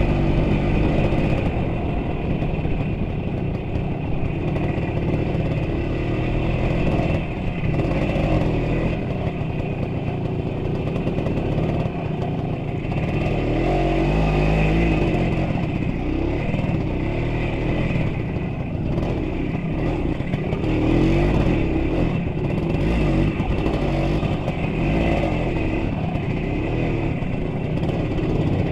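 A motor vehicle's engine running continuously, its level rising and falling.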